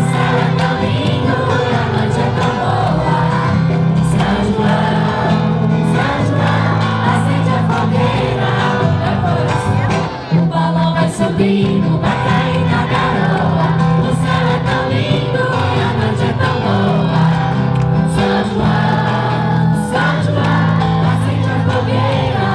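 A group of people singing a festa junina song together, with instrumental accompaniment.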